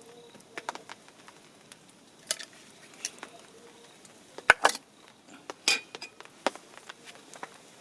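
Camp cookware and utensils being handled, with scattered light clinks and knocks, the sharpest about halfway through.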